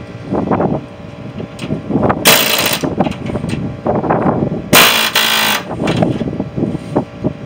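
Rapid, irregular metal knocks and clanks from scrap metal being worked on, with two loud hissing bursts, each about half a second long, roughly two and five seconds in.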